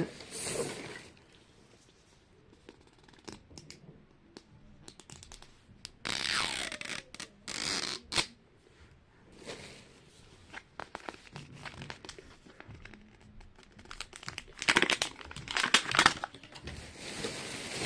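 Plastic wrapping of a Mini Brands toy capsule being crinkled and torn open by hand, in several separate bursts of rustling and tearing, the busiest near the middle and toward the end.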